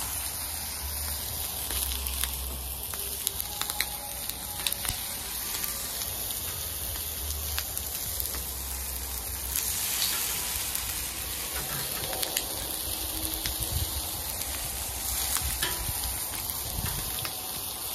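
Raw chicken wings sizzling and frying in oil on a hot Blackstone steel flat-top griddle, with scattered sharp ticks and pops and a low rumble underneath.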